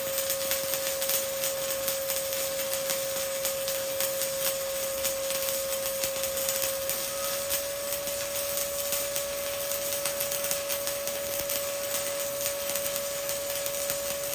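Stick (shielded metal arc) welding with a 1/8-inch E7018 electrode at 120 amps, running overhead fill beads: the arc's steady crackle full of fine rapid pops. A steady mid-pitched whine runs alongside it and steps slightly higher about halfway.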